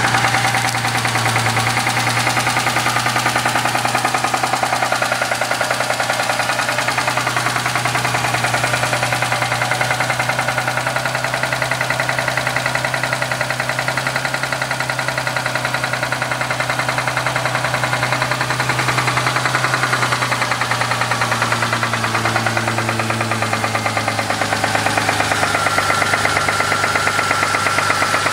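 Ford Mustang engine running with a fast, even knock, getting slightly louder near the end. The owner suspects the valvetrain but is not certain.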